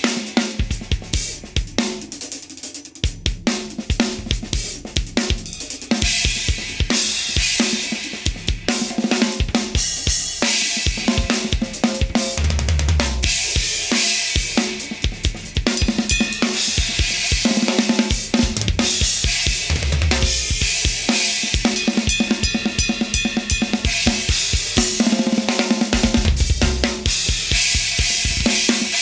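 A drum kit is played continuously as a sound test of new RECH Diablo series cymbals. Bass drum, snare and hi-hat keep a steady groove under cymbal crashes and wash, with heavier low hits about a third of the way in, two-thirds of the way in and near the end.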